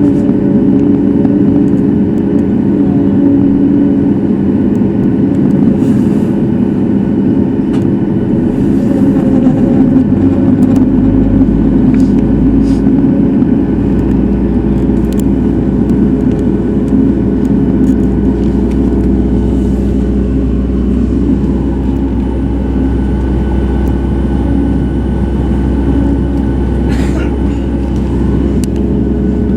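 Boeing 737 MAX 8 heard from inside the cabin over the wing, its CFM LEAP-1B engines running with steady tones. About ten seconds in, a deep rumble sets in and holds.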